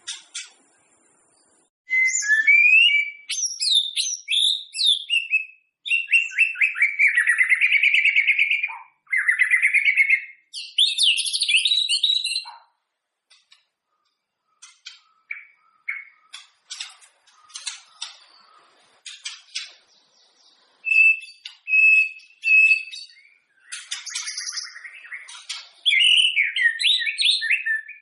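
White-rumped shama (murai batu) singing: a varied song of fluty whistles, slurred notes and fast trills. Partway through comes a run of short, sharp ticking clicks with three repeated clear notes, then the rich song resumes.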